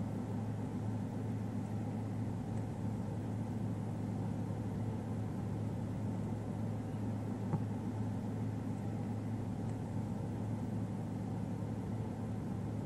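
Car engine idling with a steady low hum, heard from inside the vehicle, with a single faint click about seven and a half seconds in.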